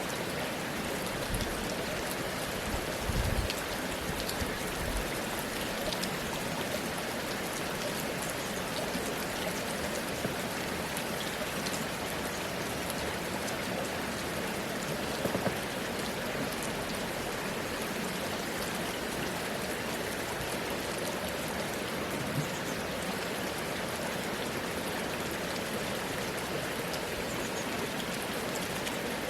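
Steady rain falling, with scattered drop ticks and a few soft low thumps, the heaviest about three seconds in and again midway.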